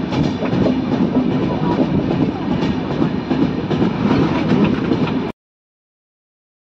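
Steady rumble and rattle of a moving express train's passenger coach running on the track, heard from the open coach doorway. The sound cuts off to dead silence about five seconds in.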